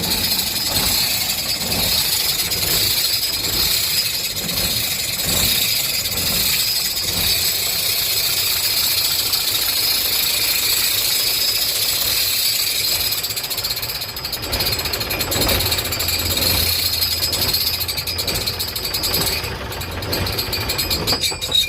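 Hino J08C diesel truck engine running with a rapid rhythmic 'chik chik' ticking from the front of the engine. The alternator has play (a loose mounting nut or a worn bearing is suspected), so belt tension tilts it and it rubs.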